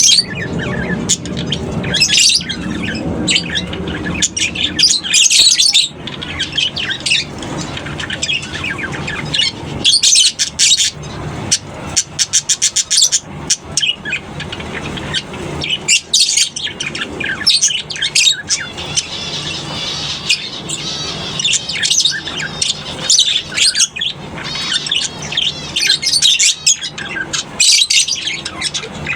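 A colony of lovebirds calling, with many shrill chirps and squawks overlapping, over a faint low steady hum.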